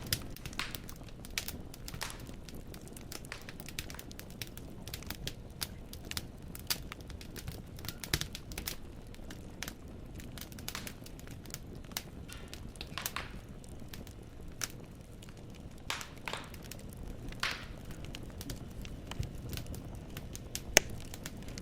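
Wood fire in a fireplace crackling, with irregular sharp pops from the burning logs over a low steady rumble of the flames, and one louder pop near the end.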